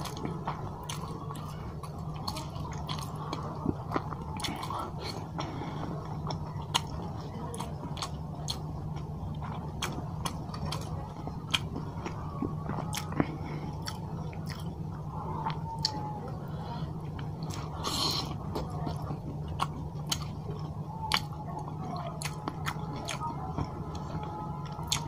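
Close-miked eating of rice and fish curry: chewing with frequent short, wet smacks and clicks of the mouth, over a steady low hum.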